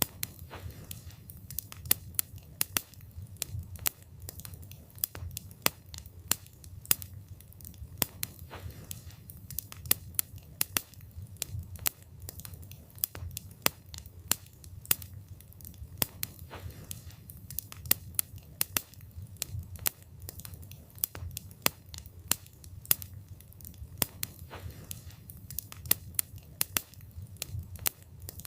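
Wood fire burning, with frequent sharp, irregular crackles and pops from the burning wood over a low steady rumble of the flames.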